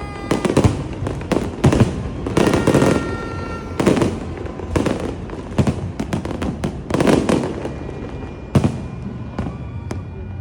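Fireworks exploding in rapid, irregular succession: many overlapping sharp bangs and booms, heaviest about two to three seconds in and again around seven seconds.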